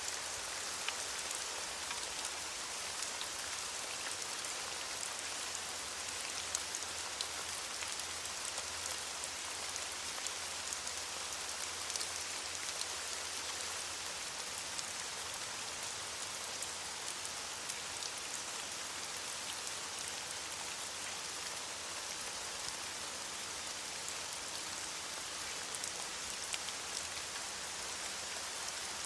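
Steady rain falling on leaves: an even hiss scattered with many small, sharp drop ticks.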